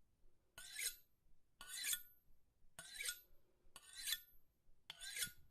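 Hand-cranked rotary file sharpener filing a tooth of a circular sawmill blade: five short filing strokes, about one a second, with quiet gaps between.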